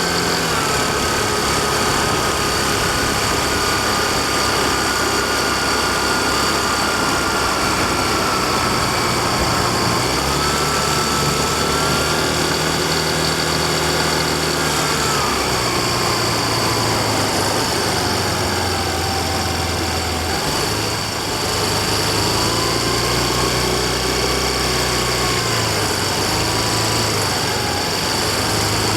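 Yamaha Fazzio scooter's 125 cc single-cylinder engine running under way, its pitch gliding up and down as the throttle and speed change, over a steady rushing noise and a constant high whine.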